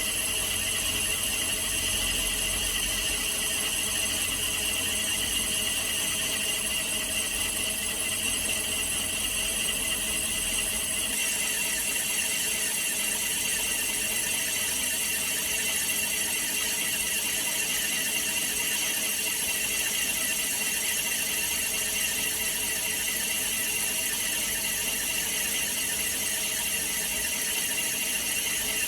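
Metal lathe running in a machine shop, a steady mechanical noise with held high tones. The sound changes abruptly about eleven seconds in, losing its low rumble.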